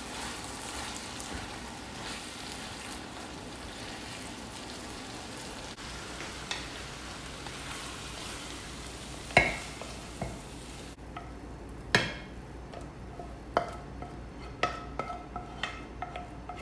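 Food frying in a pan with a steady sizzle, with a sharp knock about two-thirds through. The sizzle cuts off near the end and plucked-string music with sharp hits comes in.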